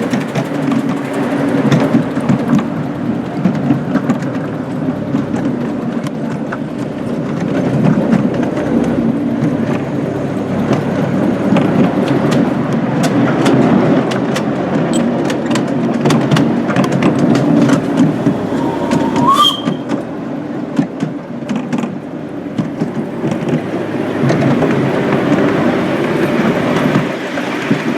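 A miniature railway train running along its track: a steady rumble with a constant patter of wheel clicks over the rail joints. About two-thirds of the way through there is a brief, rising high squeak.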